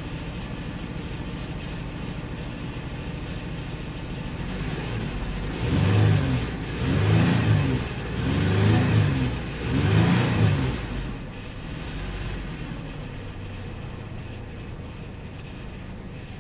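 2002 Ford Explorer engine running rough at idle, revved up and back down four times in quick succession about six to ten seconds in, then settling back to idle. The mechanic suspects a fuel delivery problem.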